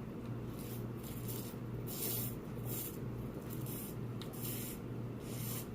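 Drink being sipped in a series of short, hissy slurps, about one or two a second, over a steady low electrical hum.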